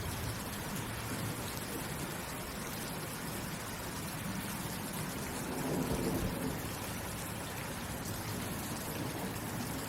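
Steady rainfall, an even hiss of falling rain, with a brief low swell about six seconds in.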